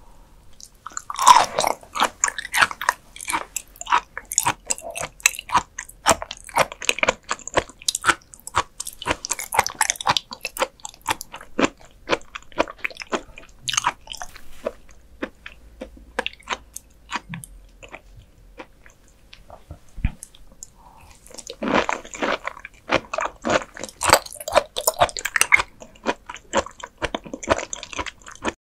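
Close-miked eating of raw beef offal: wet chewing with many sharp mouth clicks and bites. The chewing thins out for a few seconds past the middle, then turns dense again.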